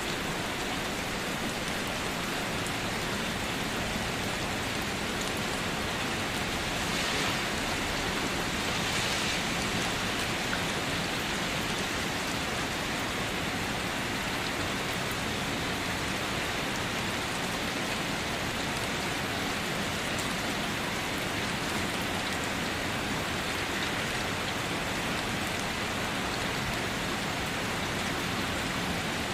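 Steady rain falling, an even hiss of drops on surfaces, swelling slightly for a few seconds early on.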